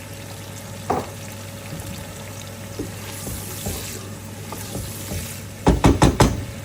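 Onion and tomato masala sizzling softly in a pan on the stove as it is stirred, over a steady low hum. Near the end come four or five loud knocks in quick succession.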